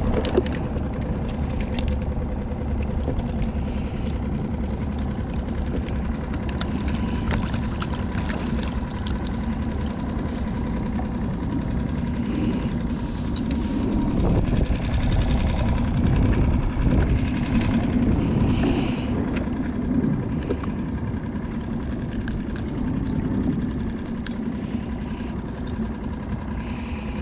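Small skiff's outboard motor idling in gear for slow trolling, a steady low running sound with occasional light clicks over it.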